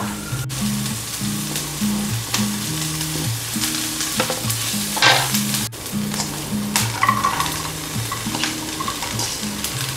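Chopped onion and chili sizzling in hot oil in a frying pan while a spatula stirs and scrapes through them, with cut green beans tumbling in near the end. Soft background music with a repeating low melody plays underneath.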